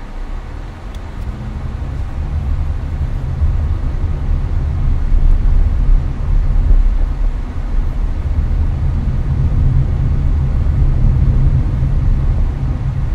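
Cabin noise of a Hyundai Avante (Elantra) cruising on the highway: a steady, deep road-and-engine rumble that swells over the first few seconds and then holds, with the air conditioner blowing.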